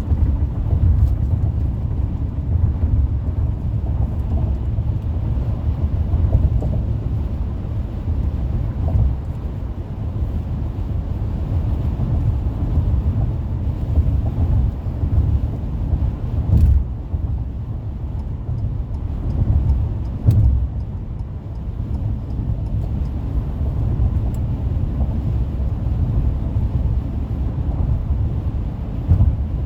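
Car's road and tyre noise at freeway speed: a steady low rumble, with a couple of short thumps about two-thirds of the way through.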